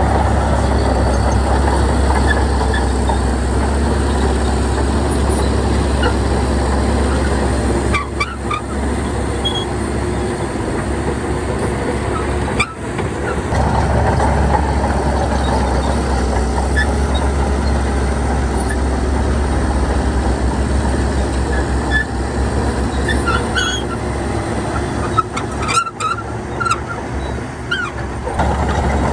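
Bulldozer's diesel engine running steadily as it works, with a few brief drops in level about 8, 13 and 26 seconds in.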